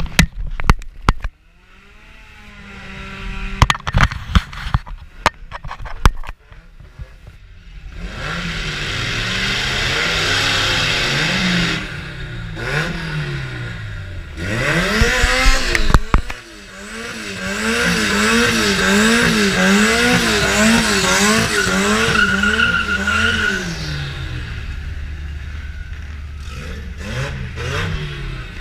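Car engine revving hard, its pitch swinging up and down about twice a second, under a loud wash of tyre squeal and noise. A run of sharp knocks comes in the first few seconds.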